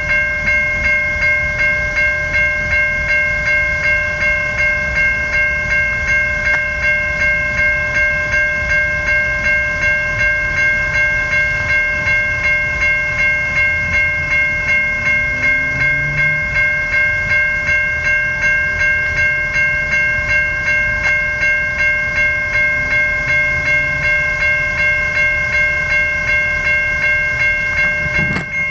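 Railway level crossing bells, a Safetran Type 3 bell and a General Signals electronic bell, ringing steadily while the crossing is activated. They strike about two to three times a second, with the ringing tones held between strikes.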